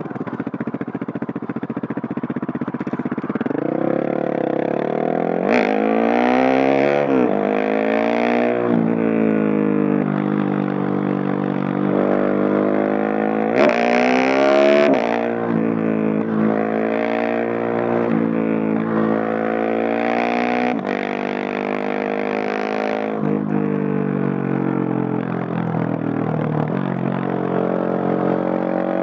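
Husqvarna 701 Supermoto's single-cylinder four-stroke engine through a Leo Vince Nero stainless exhaust, under way. The revs climb and fall again and again as the bike accelerates, shifts and rolls off, with hard throttle pulls about five seconds in and again near the middle. Heard from a backpack microphone, without wind noise.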